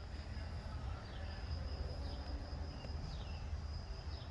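Faint outdoor ambience: a steady high insect drone, with a few short falling chirps over a low rumble.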